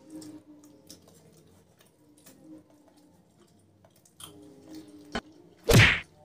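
Close-miked chewing with small scattered clicks of people eating leftover bits of food by hand, over faint steady background music. Near the end comes one sudden loud burst about a third of a second long, far louder than the chewing.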